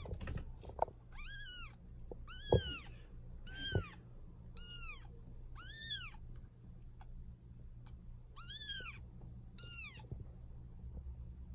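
A one-week-old kitten mewing: about seven thin, high calls, each rising and falling in pitch, roughly one a second, with a pause of about two seconds midway. A few soft knocks are heard among the first calls.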